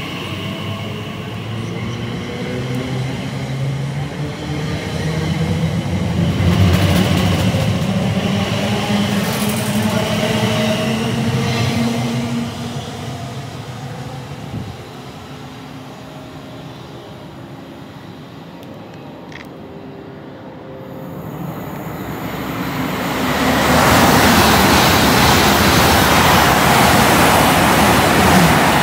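Electric train's traction motors whining, several tones shifting in pitch, fading after about 13 seconds. Then a fast train passes at speed, a loud steady rush of wheel and air noise over the last several seconds.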